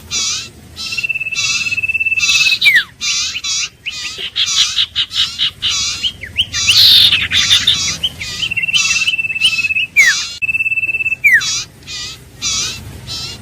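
Iora singing: short chirping notes repeated about twice a second, broken by long level whistled trills and a few sharp downward-sliding whistles.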